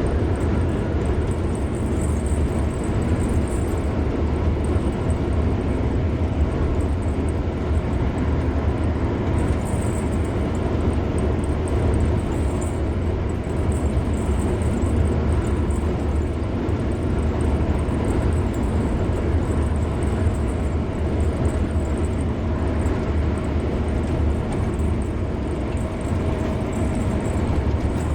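A car driving at steady speed on a highway: a constant low rumble of tyre, engine and wind noise with no changes in pace.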